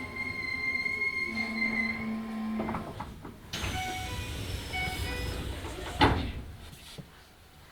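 Keisei 3000 series train's Toyo IGBT-VVVF inverter whining in steady tones as the train brakes to a stop, ending with a clunk. Then a hiss of air with a repeating door chime, and the sliding doors banging open just after six seconds in.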